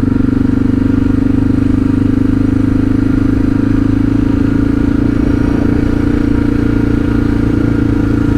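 Suzuki DR650's single-cylinder four-stroke engine running steadily as the motorcycle is ridden along.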